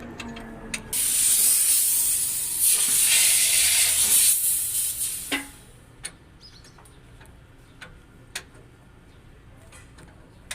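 A loud, steady hiss of spraying air or fluid starts about a second in and stops after about four and a half seconds. A few light clicks and knocks follow.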